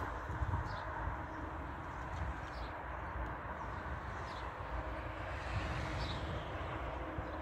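A bird chirps, a short high call about every two seconds, four times, over a steady low outdoor rumble with a faint even hum.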